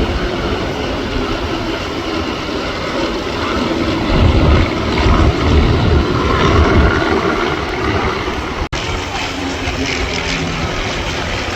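Aircraft engine noise: a loud, steady rumble that swells for a few seconds in the middle and breaks off for an instant near the end.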